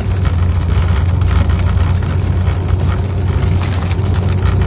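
Car engine and road noise heard from inside the cabin while driving, a steady low hum with no change in pitch.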